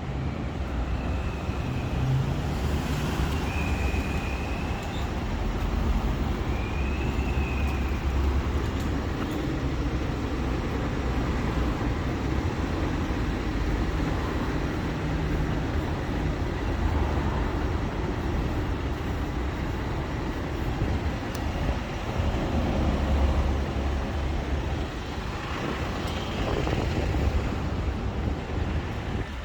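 Steady city street traffic: a continuous low rumble of passing cars and trucks, with a few brief high squeals in the first several seconds.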